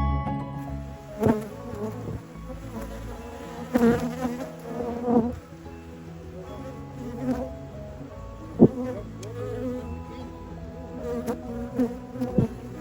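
Honeybees buzzing close by, single bees passing with a wavering pitch that rises and falls. A few sharp knocks come through, the sharpest about nine seconds in.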